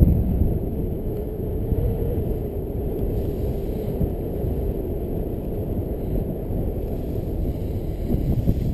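Wind buffeting the microphone in paraglider flight: a steady low rumble of rushing air.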